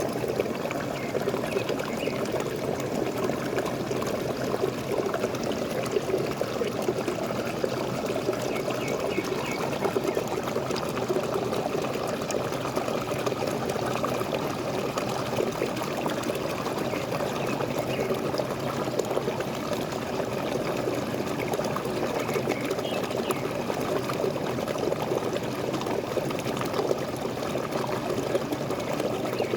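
Small waterfall splashing and pouring steadily, an even rush of falling water with no change.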